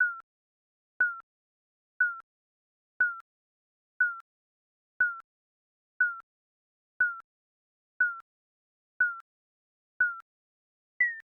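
Digital countdown timer beeping once a second, each a short electronic beep that dips slightly in pitch. Near the end the beeps step up to a higher pitch, marking the start of the final ten seconds.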